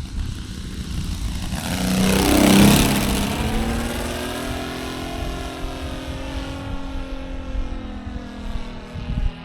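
A 1/4-scale RC Sopwith Pup's Saito FG-60R3 three-cylinder radial petrol engine flying past: it grows loudest about two and a half seconds in, its pitch drops as it passes, then it drones on lower and fades slowly.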